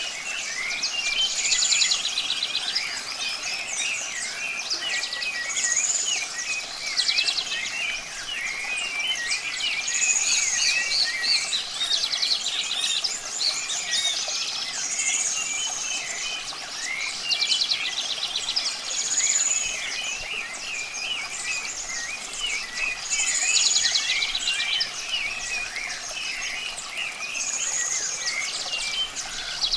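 A chorus of songbirds chirping and singing, with one buzzy, trilled song ending in a high note recurring every few seconds, over a steady hiss of running water.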